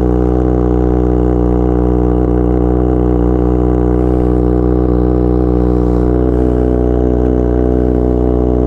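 Kawasaki ZX6R 636 inline-four idling steadily through an Austin Racing GP1RR aftermarket exhaust, warming up after a cold start.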